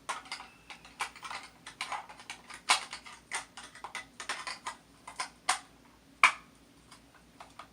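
Small hard plastic parts of a toy recycle truck clicking and clattering as they are handled, an irregular run of sharp clicks several times a second with a louder clack near the middle and another about six seconds in, then only a few faint ticks.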